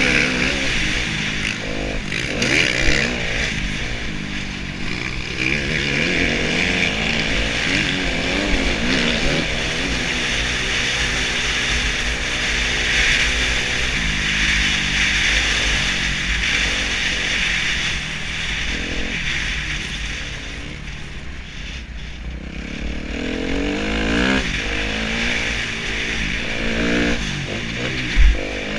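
2013 Kawasaki KX250F four-stroke single-cylinder motocross engine riding a track, revving up and falling back again and again as the throttle is opened and closed, easing off for a couple of seconds past the middle. A sharp thump near the end.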